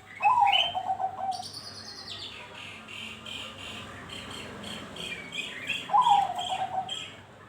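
Zebra dove (perkutut) song: a pulsed, falling cooing phrase at the start and again about six seconds in. Between them another bird gives rapid high chirps, about four a second.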